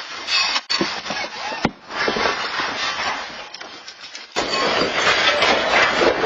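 Loud, continuous rattling and clattering of things shaken by a magnitude 7.0 earthquake. The sound changes abruptly about four seconds in.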